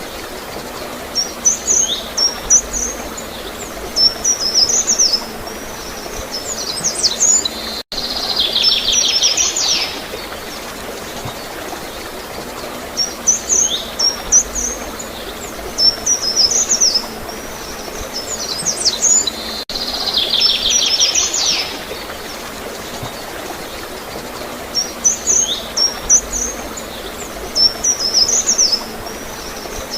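Small birds chirping in quick, high, sliding notes, each bout ending in a buzzy trill, over a steady gurgle of flowing water. The same run of calls repeats about every twelve seconds.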